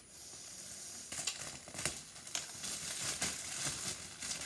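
Plastic bag crinkling and rustling as it is handled, with several sharp crackles, typical of a bread bag of hot dog buns being opened and the buns taken out.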